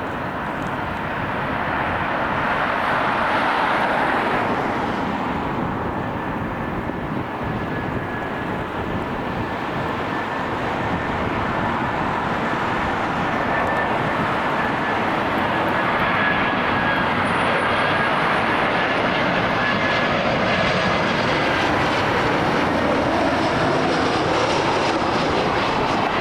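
Jet airliner's engines as it flies past: a broad rushing noise with a faint steady whine above it. The noise swells about four seconds in and grows louder again in the second half.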